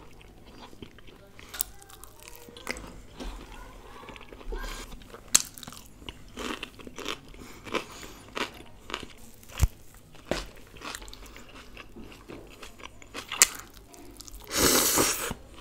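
Close-miked chewing of garlic naan soaked in creamy methi malai chicken gravy: irregular wet clicks and smacks of the mouth and teeth. Near the end a louder burst of noise as a big mouthful goes in.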